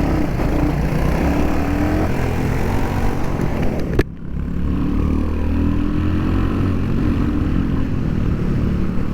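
Royal Enfield Hunter 350's air-cooled 349 cc single-cylinder engine pulling under acceleration, with wind rush on the mic. The engine pitch rises, breaks off with a sharp click about four seconds in, then climbs again.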